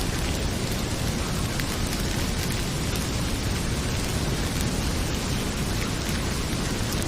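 Heavy rain pouring in a steady, dense hiss with a deep rumble underneath, and a fireplace crackling with a few faint pops.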